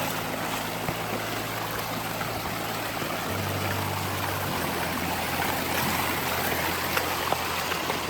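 Steady rush of water pouring over rocks from a hill-stream waterfall, with a soft low music drone underneath.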